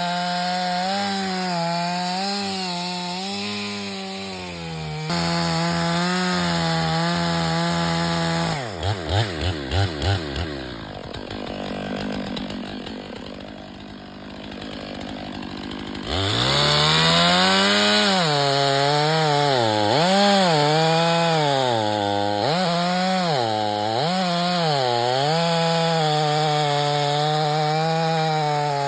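Two-stroke Stihl chainsaw cutting firewood at high revs, its pitch wavering as the chain loads up in the wood. Midway it drops back to idle after a few quick throttle blips. A few seconds later it is revved hard again and cuts on, the pitch dipping repeatedly as the chain bogs into the log.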